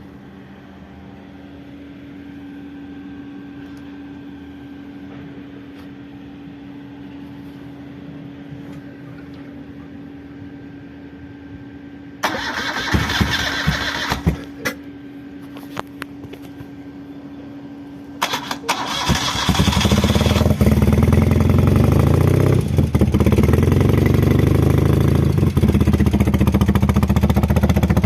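A 1975 BMW R90/6's air-cooled flat-twin engine is started through Norton peashooter mufflers. After a long low hum, the starter turns it over briefly, a few clicks follow, and on a second short crank the engine catches and runs steadily and loudly.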